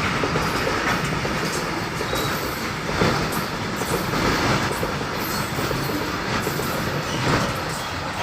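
A moving train running along the rails: a steady rumble, with occasional clicks of the wheels over the rail joints.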